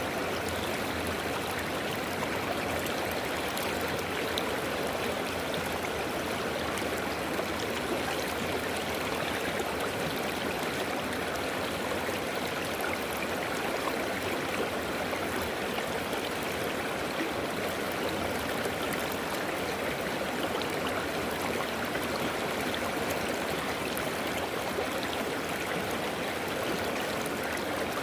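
A river flowing over rocks: steady, even rushing and gurgling of running water.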